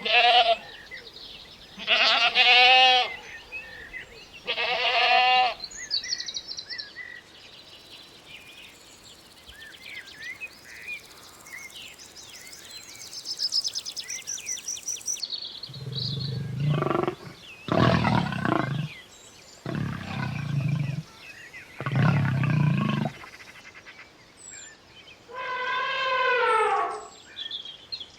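A sequence of animal calls. Two bleats come first, then several seconds of scattered bird chirping, then four deep roars in a row. A final long, wavering call comes near the end.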